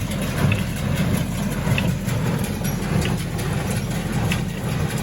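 Tractor engine running steadily while pulling a hay baler at work, a low drone with a faint click from the baler about once a second.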